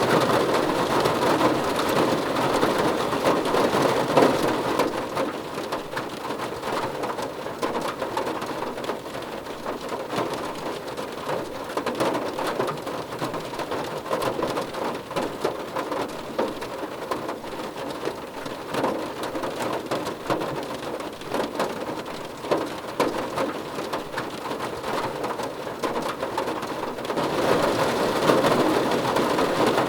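Steady rain falling on a car roof, a dense patter of drops, heavier for the first few seconds, easing to lighter scattered drops in the middle and swelling again near the end.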